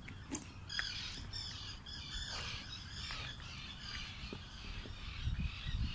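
Birds calling outdoors: a run of high, broken chatter from about a second in, over a steady low rumble.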